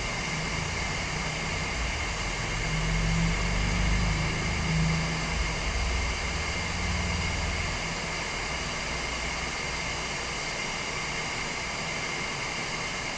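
Hot air rework station blowing steadily, with a faint high whine over the airflow hiss, reflowing leaded solder on a circuit board. A low rumble swells in the middle, then eases off.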